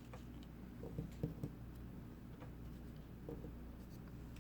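Faint handling of paper craft pieces on a table: a few light taps and clicks, clustered about a second in and again later, over a low steady room hum.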